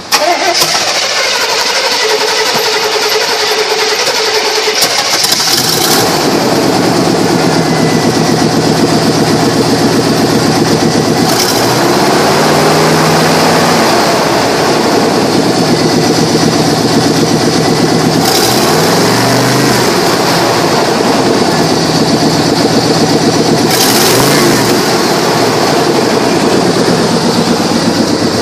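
1991 Chevrolet Silverado 1500 pickup engine starting, then running, revved up and back down about three times. This is a salvage-yard run test showing that the engine runs.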